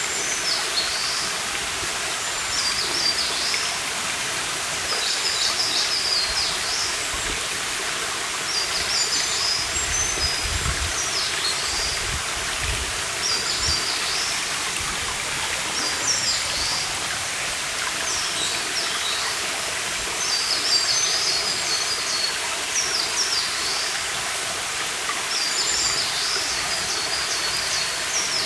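A stream running steadily, with a songbird repeating a short, high, twittering song phrase every few seconds.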